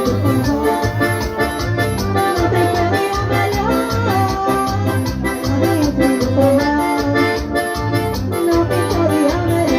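Forró music without vocals: an accordion plays the melody over a steady, pulsing bass and percussion beat.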